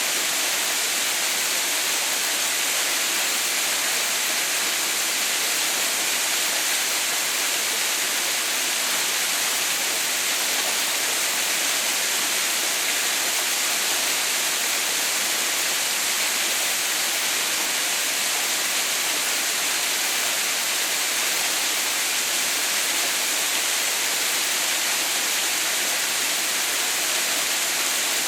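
Water falling steadily at a small mountain waterfall, a constant hiss without change.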